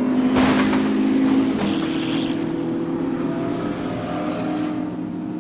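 Sports car sound effect: the engine revs and whooshes past about half a second in, then its note holds steady and slowly fades.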